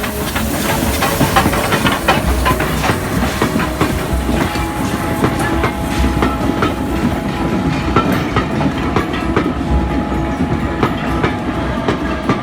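A steam railway train in motion, its wheels clattering over the rail joints with a steady running rumble and frequent irregular knocks.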